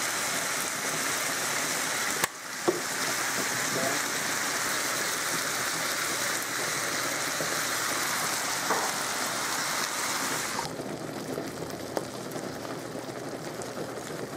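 Chicken, broccoli and cream of mushroom soup frying in a skillet: a steady sizzling hiss, with a few brief clicks, getting quieter near the end.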